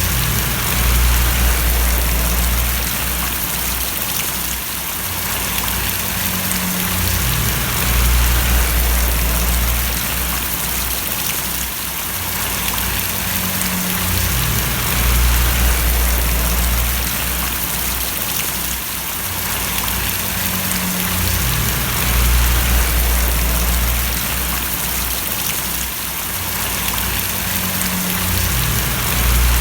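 Steady rain falling and splashing, an even hiss, with a low hum underneath that swells and drops back about every seven seconds.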